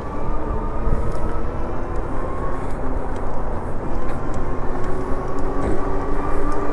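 Lectric XP e-bike's hub motor whining under a heavy rumble of wind on the chest-mounted microphone, its pitch creeping slowly up.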